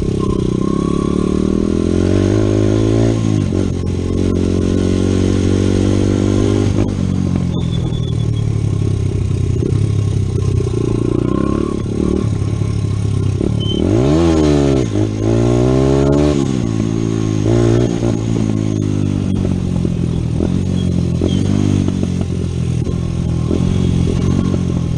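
Honda CRF100 dirt bike's single-cylinder four-stroke engine revving up and down as it is ridden, the pitch climbing and falling with throttle and gear changes. About fourteen seconds in, the revs drop sharply and then climb again.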